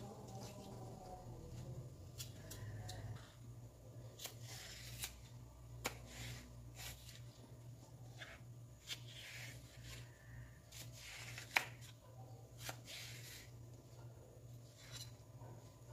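Kitchen knife scraping the seeds out of a halved cucumber and slicing it into strips on a plastic cutting board: soft scrapes and cuts with scattered sharp clicks of the blade on the board, the loudest click about three-quarters of the way through.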